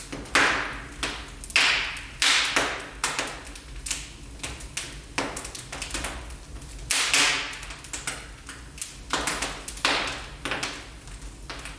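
Wood fire burning in a fireplace, crackling with irregular sharp pops and snaps, a few of them loud.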